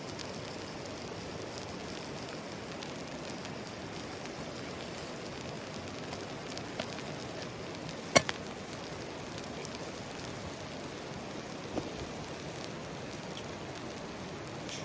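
Steady rushing of a mountain stream, broken by a few sharp cracks, the loudest about eight seconds in.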